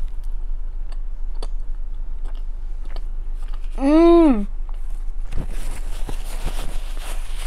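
Close-up chewing of a chili cheese dog with small wet mouth clicks, then a loud closed-mouth "mmm" of enjoyment about four seconds in, its pitch rising then falling. From about five seconds a paper napkin rustles as mouth and hands are wiped.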